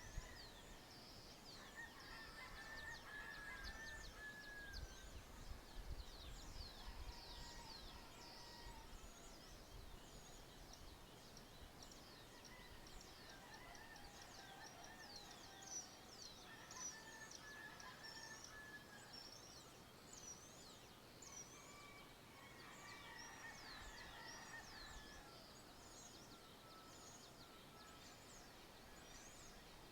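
Faint dawn chorus of birds: many quick high chirps throughout, with longer, lower calls every few seconds. A low rumble sits under the first ten seconds or so.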